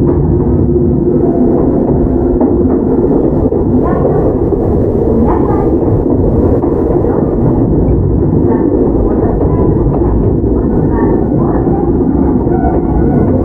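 Running noise inside a field-chopper-controlled Toyama Chihō Railway 17480 series electric car (former Tokyu 8090 series): a loud, steady rumble of wheels on rail with motor and gear hum under way.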